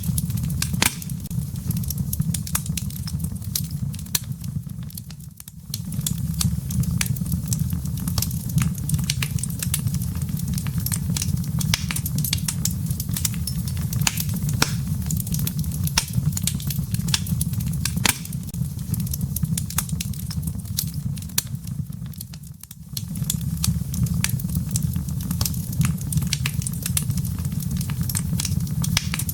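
Wood fire burning in a fireplace: frequent sharp crackles and pops from the firewood over a steady low rumble of the flames. The sound briefly drops away twice, about five seconds in and near 23 seconds.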